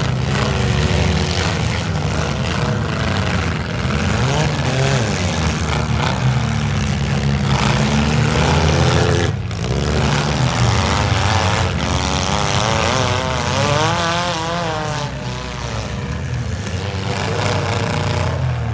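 Engines of compact demolition derby cars running hard and revving as the cars push against each other, with the pitch rising and falling quickly in the second half.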